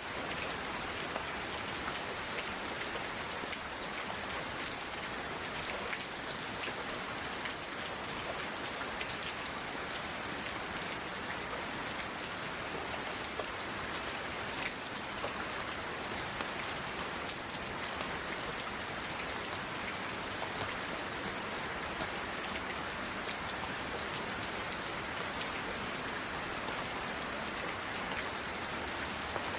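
Recording of steady rain falling, an even hiss sprinkled with many small drop ticks.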